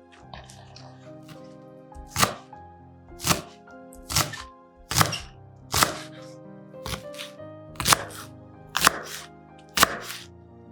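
Knife chopping on a cutting board, a sharp knock about once a second, over background music.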